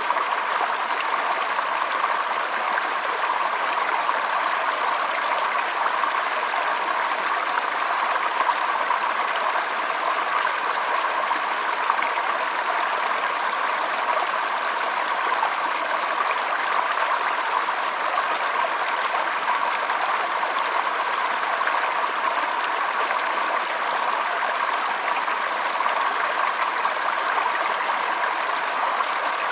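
Shallow stream flowing and trickling steadily: an even, continuous rush of water.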